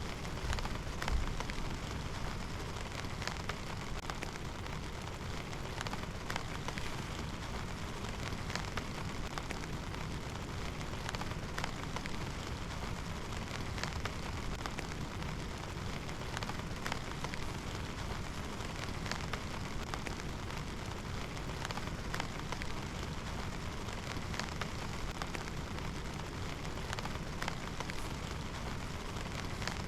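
Steady rain, with individual drops ticking sharply and irregularly on a nearby surface, and a brief low thump about a second in.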